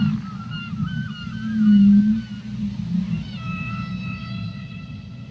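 Whale calls over a steady low underwater rumble: a run of short rising chirps, a low moan about two seconds in, then a long held high tone with overtones from about three seconds in.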